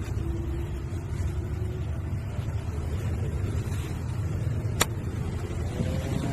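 MSRTC bus engine running with a steady low rumble; a single sharp click about five seconds in.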